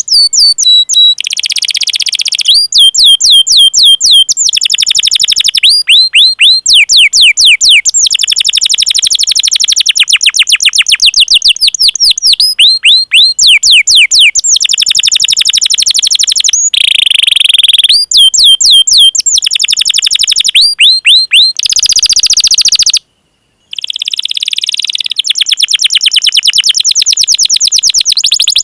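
Domestic canary singing loudly, with series of quick falling chirp notes ('cuit cuit' calls) alternating with long, fast trilled rolls. The song breaks off completely for about half a second a little past the middle.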